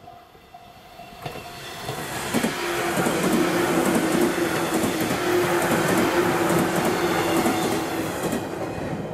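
JR West 115 series electric train passing close by: a rumble of wheels on rails builds over the first couple of seconds, then runs loud with a steady hum and scattered sharp clicks, easing a little near the end.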